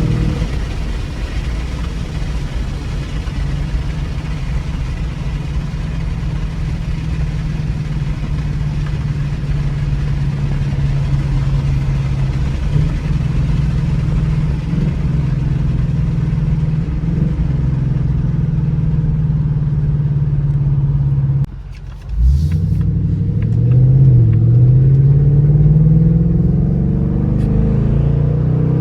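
Ford Mustang GT's 5.0-litre Coyote V8 and exhaust under way, holding a steady drone for about twenty seconds. The sound dips sharply and briefly, then the engine note climbs as the car accelerates.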